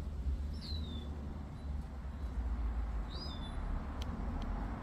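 A small bird calling twice, about two and a half seconds apart, each call a short whistle that falls in pitch, over a steady low rumble.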